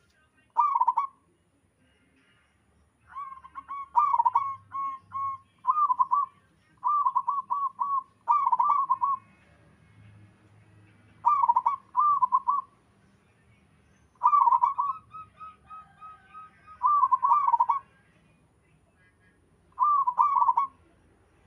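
Zebra doves (perkutut) cooing: phrases of quick, rolling coos every second or two, with a fainter bird answering between some of the phrases.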